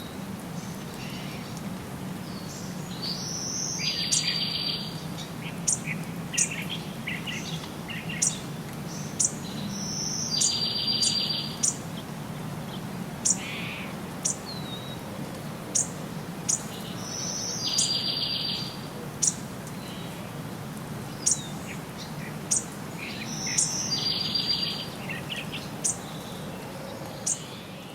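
Wild birds singing. One bird repeats a short phrase ending in a buzzy trill about every seven seconds, four times, with quick high chirps scattered between, over a steady low background hum.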